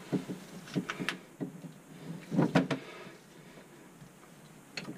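Knocks and clatter of hard parts being handled under a kitchen sink during garbage disposal removal. The knocks come irregularly, with a louder cluster about two and a half seconds in.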